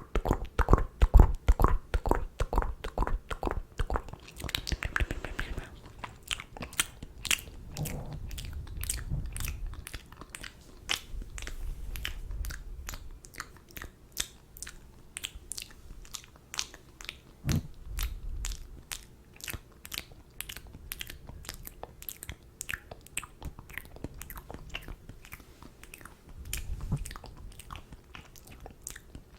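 ASMR mouth sounds: a rapid, unbroken run of tongue and lip clicks, several a second. They are heavier at first and turn sharper and crisper after a few seconds, with a few softer, deeper sounds between them.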